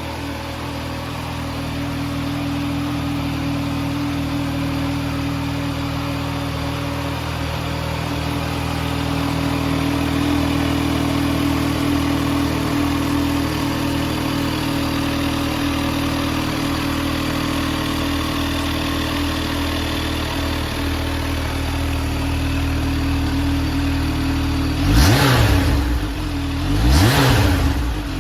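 Kawasaki Z H2 SE's supercharged inline-four engine idling steadily, then revved twice near the end, each blip rising and falling back to idle.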